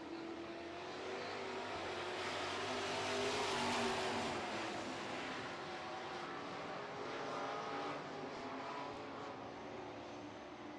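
Engines of several dirt-track super trucks running at racing speed. The sound swells as the pack passes close, loudest about four seconds in, then fades.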